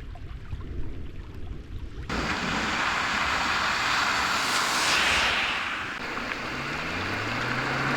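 Heavy thunderstorm rain hissing, starting abruptly about two seconds in and swelling briefly in the middle. Near the end a low engine hum rises steadily in pitch under the rain.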